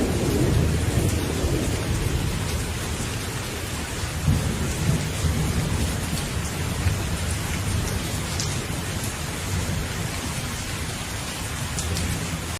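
Steady rain with low, rolling thunder underneath; the thunder rumble is strongest at the start and eases off, and the sound stops abruptly at the end.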